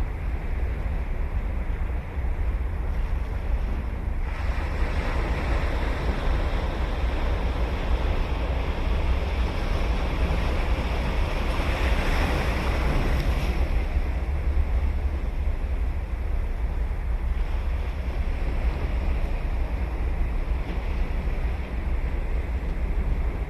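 Ocean waves breaking and washing ashore, one wash swelling from about four seconds in to a peak near the middle and then fading, with a smaller swell later. Under it runs a steady low rumble of wind on the microphone.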